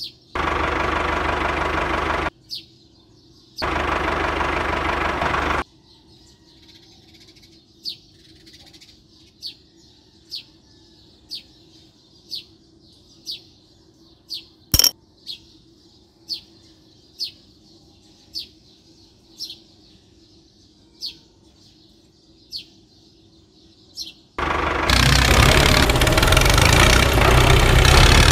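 Loud motor noise from the miniature toy tractors runs twice for about two seconds near the start. From about 24 seconds in it runs again, louder and without a break, as the tractors pull against each other. In between, a bird chirps about once a second over a low steady hum, with one sharp click about halfway.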